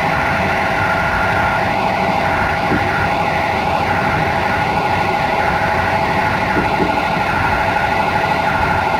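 Passenger train running at speed, heard from inside the train: a steady rumble of wheels on rail, with a constant whine held through it.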